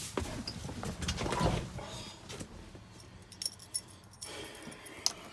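A bunch of keys jangling, with scattered clicks and knocks and a louder thump a little over a second in; the truck's engine is not running.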